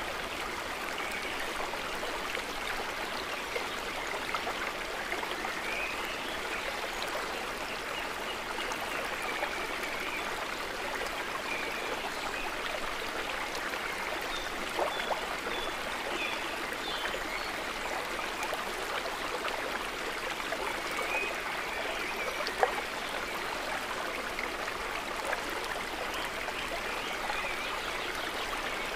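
Water gently trickling and gurgling in a steady, even wash, with a few small drips or splashes, one a little sharper about two-thirds of the way through.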